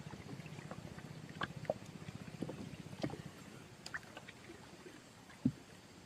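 Water sounds on a river with scattered light knocks and clicks, the loudest knock about five and a half seconds in, over a low steady hum that fades out about halfway through.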